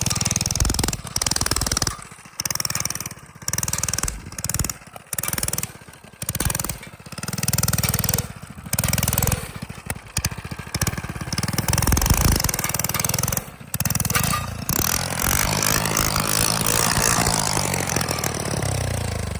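Modified mini bike engine revving in short bursts as the throttle is opened and closed again and again. From about fourteen seconds in it holds a steady run, then its pitch falls away near the end.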